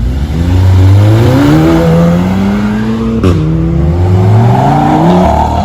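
A car accelerating hard from a launch. The engine revs climb, shift up sharply about three seconds in, climb again, and shift up again near the end.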